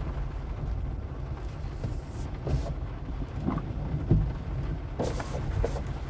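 Car driving slowly over a rough, wet sandy road: a steady low engine and road rumble with a few knocks and rattles from bumps, the loudest about four seconds in.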